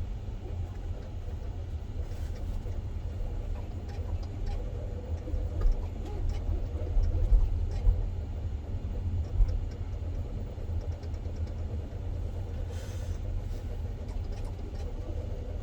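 Steady low road and tyre rumble inside the cabin of a Hyundai Ioniq 5 electric car on the move, with no engine sound; a few short knocks from bumps in the road come around the middle.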